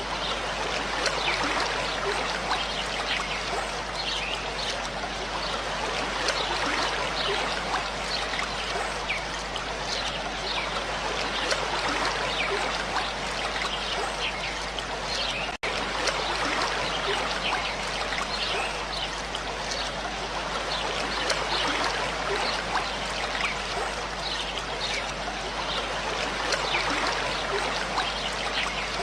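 Running water, steady and splashing, like a stream or small cascade. It cuts out for an instant about halfway through.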